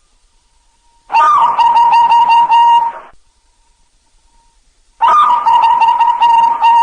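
Zebra dove (perkutut) cooing: two phrases of quick repeated coos, each about two seconds long, the second starting about five seconds in.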